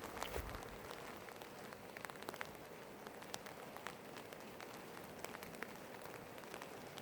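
Steady rain falling, faint, with many individual drops ticking separately on a surface.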